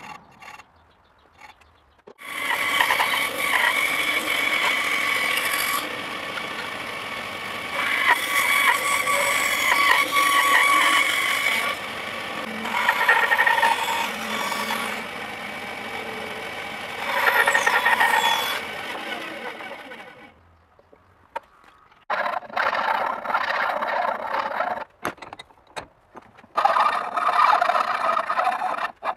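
A power tool grinding a workpiece, a rough hiss with a squealing whine in it. It starts about two seconds in, runs on with changing pitch, stops around twenty seconds in, then comes back in short, broken spells.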